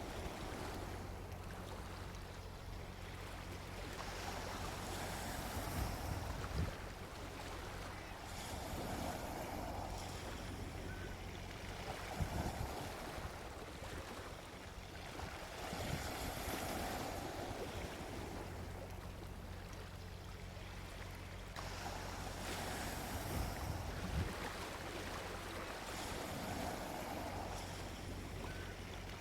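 Gentle sea waves breaking and washing up a beach, swelling and easing every few seconds over a steady low rumble.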